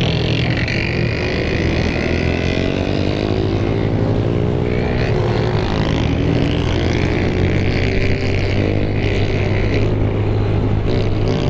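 Several motorcycle engines running together in a steady low drone, with engine pitch shifting up and down as throttles are worked.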